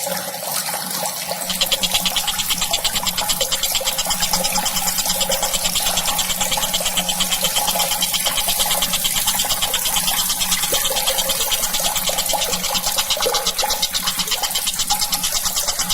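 Tengkek buto bird giving a long, rapid, dry rattling trill, starting about a second and a half in, over a faint steady low hum.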